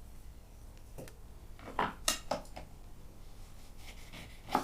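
A few light clinks and knocks of dishes and utensils, about half a dozen short ones spread out, the sharpest near the end.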